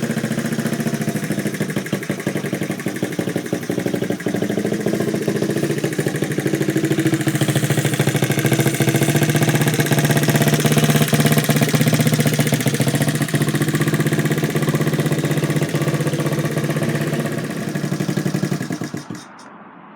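Honda Z50 mini bike's small single-cylinder four-stroke engine idling steadily while warming up for an oil change, then stopping abruptly near the end.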